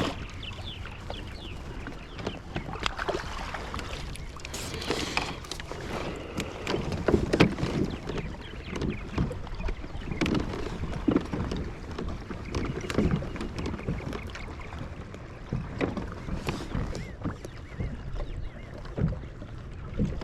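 Water and wind sounds on a fishing kayak, with scattered knocks and clicks against the hull and gear.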